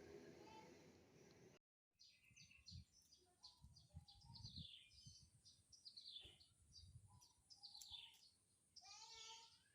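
Faint birds chirping: a scattered series of short, high chirps that fall in pitch, with a longer chirp near the end.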